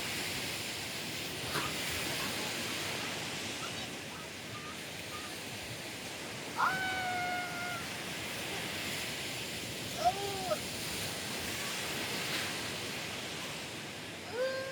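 Steady rush of sea surf breaking on a beach. A few brief pitched calls stand out over it, one held for nearly a second about halfway through and a shorter one a few seconds later.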